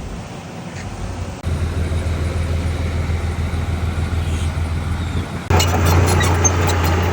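Heavy diesel earthmoving machinery running, a steady low engine drone. The sound jumps abruptly louder twice, about a second and a half in and about five and a half seconds in, with clanking and clattering over the drone after the second jump.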